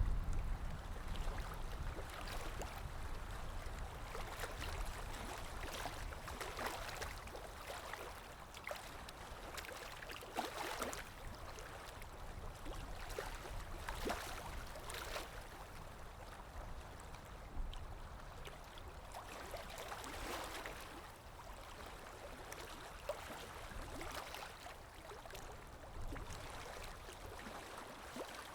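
Underwater ambience: a steady low rumble and watery hiss, with bubbles gurgling at irregular moments.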